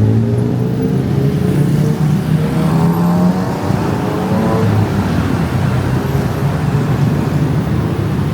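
Road traffic with a vehicle engine running close by, its pitch climbing over the first three seconds as it speeds up.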